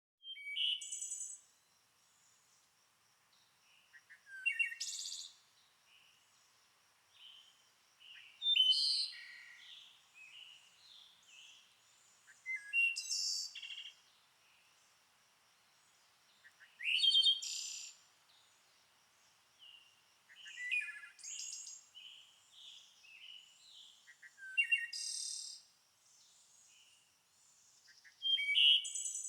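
A songbird singing short, loud, high-pitched phrases about every four seconds, with softer chirps between them and a faint, steady high hum underneath.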